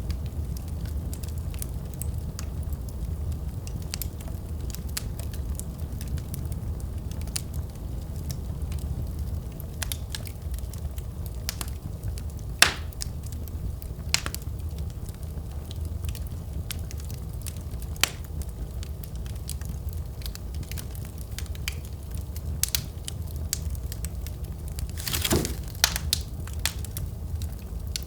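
Wood fire crackling and popping over a steady low rumble, with scattered sharp pops, the loudest about halfway through, and a brief hiss about three quarters of the way in.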